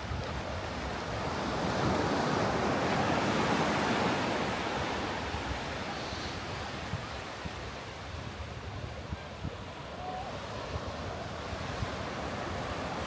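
Ocean surf washing onto a beach, a wave swelling about two seconds in and then easing, with wind buffeting the microphone.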